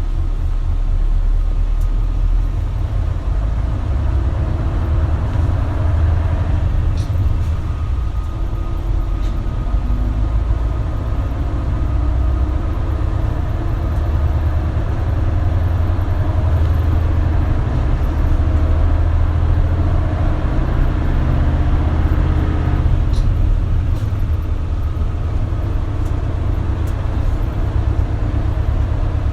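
Isuzu Erga route bus heard from inside while driving: a steady low engine rumble with road noise. The running noise grows louder about six seconds in and eases back around twenty-three seconds.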